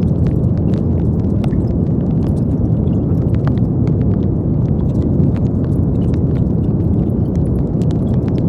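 Brown noise: a steady, deep rumbling hiss, strongest in the low range, with faint scattered ticks above it.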